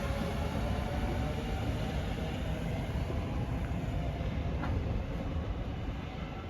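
A passenger train pulling out of the station, a steady rumble of running gear and wheels on rail that grows gradually quieter toward the end as it draws away.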